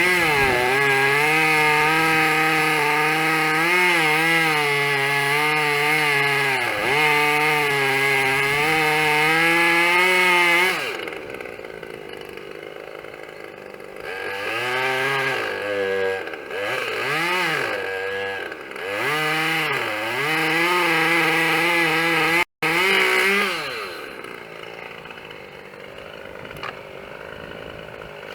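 Two-stroke chainsaw running hard under load, cutting birch for about ten seconds. It then drops back and is revved in several short blips, and settles to a low idle near the end.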